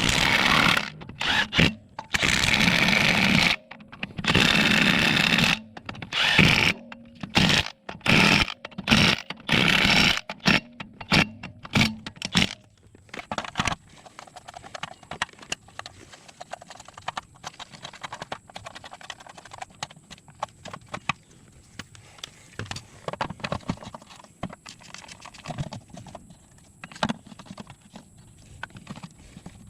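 An impact wrench runs lug nuts onto a wheel in loud bursts of a second or so, several times over the first dozen seconds. After that come scattered lighter clicks and knocks of hand tools and metal parts.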